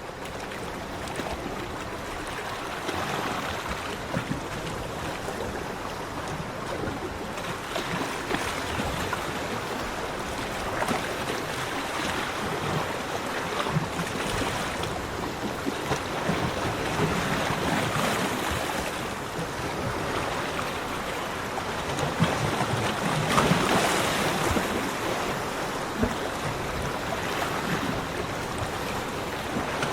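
Ocean waves breaking and washing on a beach, a continuous rushing surf that swells and eases every few seconds, with the strongest wash a little past two-thirds of the way in.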